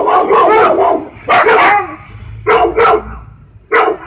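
Siberian Husky barking in loud groups of quick, pitch-bending barks and yips, with short pauses between the groups.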